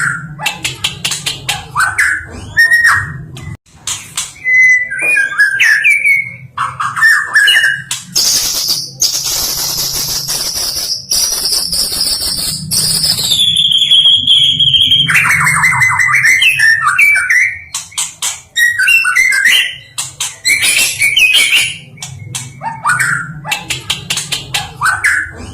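White-rumped shama singing a varied, loud song of whistles, chirps and fast trills, the mimicry-filled 'isian' song of a Medan murai. About halfway through it holds one long whistle that steps down in pitch. A steady low hum runs underneath.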